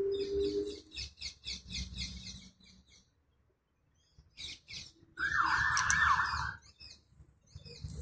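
Small birds chirping: a rapid run of high chirps, about seven a second, for the first few seconds, then a few scattered chirps and a louder, longer call about five seconds in.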